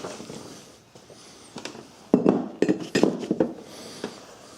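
Metal tools and engine parts being handled and set down, clinking and clanking, with a quick run of sharp knocks about two seconds in.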